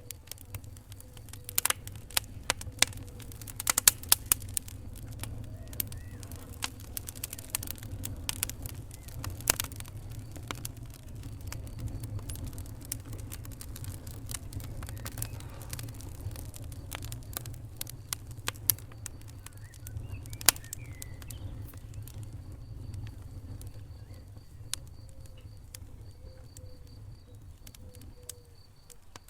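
Wood fire crackling in a fireplace: sharp, irregular pops over a steady low rumble of the flames. The pops come thick in the first ten seconds, then thin out, with one loud snap about twenty seconds in.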